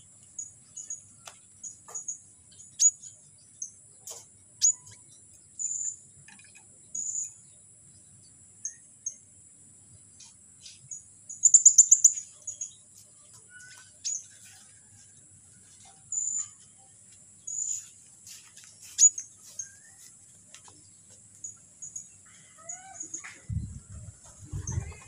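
White-rumped shama (murai batu) singing in trotol style: short, high, sharp chirps and clicks at irregular intervals, with a rapid stuttering trill about twelve seconds in, over a steady high hiss.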